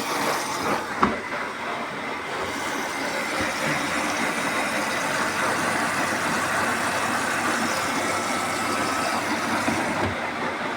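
Beko washing machine filling with water: a steady rush of water running in, with a single knock about a second in.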